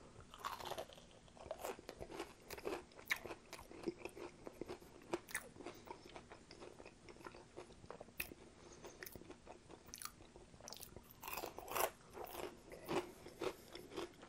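Close-miked crunching and chewing of crispy fried chicken tenders with a dry, crackly breading, in many short sharp crunches. A denser, louder run of crunching comes about eleven seconds in.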